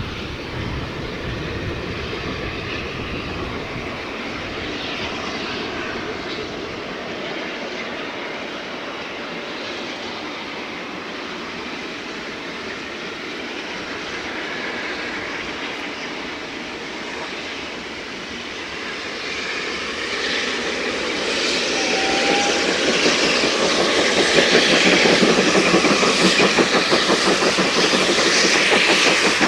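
Steam locomotive working a train, heard faint at first, then its exhaust beats grow louder and quicker-sounding as it approaches over the last third.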